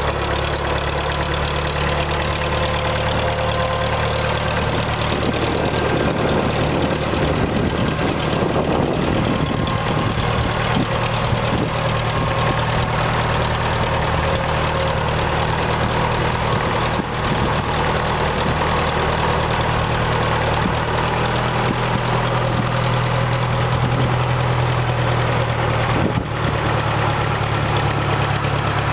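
A 1974 International Harvester 574 tractor engine running at a steady idle, its note shifting briefly between about five and ten seconds in.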